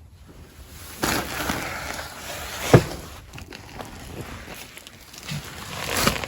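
A person crawling and squeezing through a crawl space: rustling and scraping of body and clothes on the ground and framing, with a sharp knock about three seconds in.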